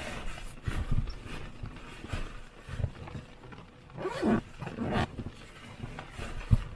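Fabric rustling and soft knocks as a down sleeping bag is pushed and stuffed into a large storage bag, with a couple of short strained grunts of effort about four and five seconds in.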